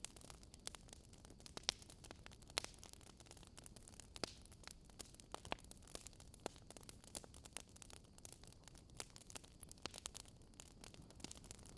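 Wood fire crackling: irregular sharp pops and snaps over a faint low hiss, a few louder pops between about one and three seconds in.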